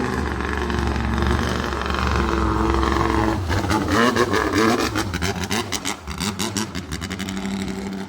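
A boat engine running on the water, its pitch falling away and then rising again as it revs, with a steady low rumble underneath.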